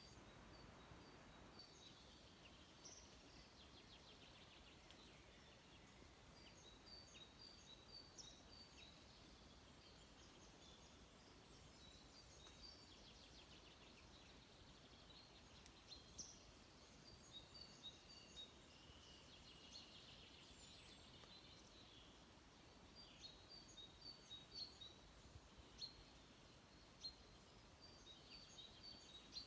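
Faint birdsong: small birds giving short, high chirps and twitters, repeated in loose runs throughout, over a quiet background hiss.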